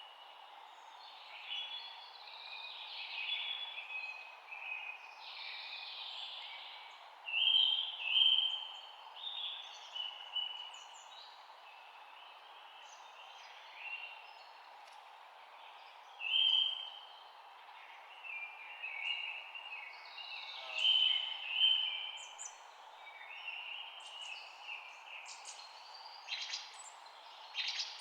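Several birds chirping and singing in short overlapping phrases, with louder bursts about a quarter, half and three-quarters of the way through, over a steady background hiss.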